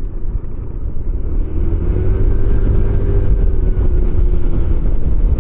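Small motorcycle being ridden along a country road: a steady low rumble of engine and wind noise, with a faint engine note that rises and eases off in the middle.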